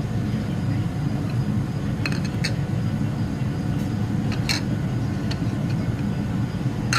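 Steady low rumble of a vehicle on the move, with a few light clinks and rattles.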